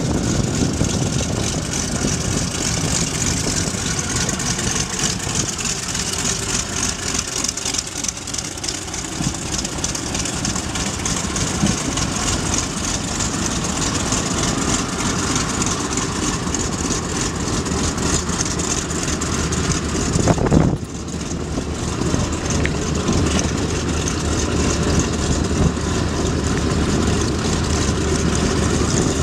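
Piston engine of a propeller-driven World War II warbird running steadily, with an abrupt dip in the sound about two-thirds of the way through.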